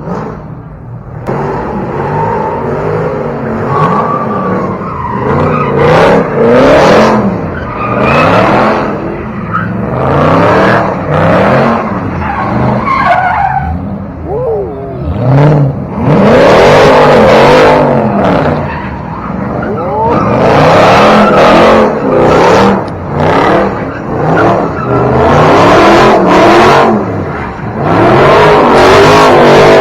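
Car engines revving up and down again and again while tyres spin and squeal, with repeated loud stretches of tyre squeal.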